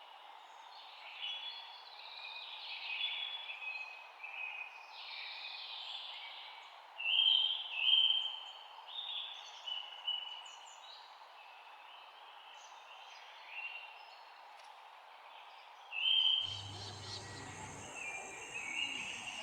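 Several songbirds chirping and singing in short, overlapping phrases over a steady background hiss. About sixteen seconds in the background changes and a low hum comes in briefly.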